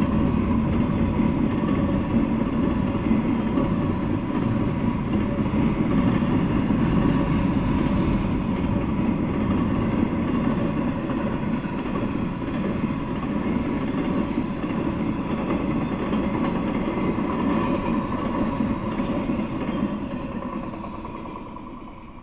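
Intermodal freight train of double-stack container cars and trailer-carrying flatcars passing close by: a steady rumble of steel wheels rolling on the rails, which fades away over the last couple of seconds as the end of the train goes by.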